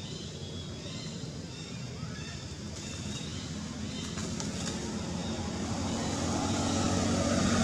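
A motor vehicle's engine, a steady low hum growing steadily louder as it draws near, with faint high chirps in the first few seconds.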